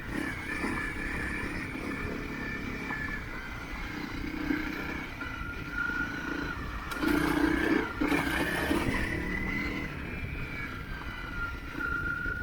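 Motorcycle riding along a forest road, engine running under a steady rumble of wind and road noise, with a louder surge about seven seconds in.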